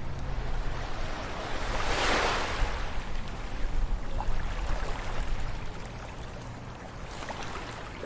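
Ocean waves breaking on a beach. One wave crashes about two seconds in and washes back, and a smaller one breaks near the end.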